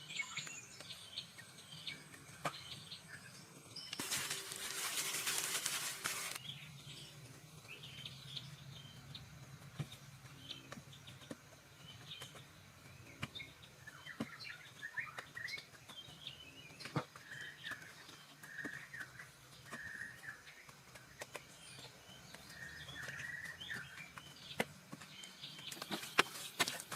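Birds chirping on and off, with scattered light clicks and knocks. About four seconds in comes a loud rushing hiss lasting about two seconds.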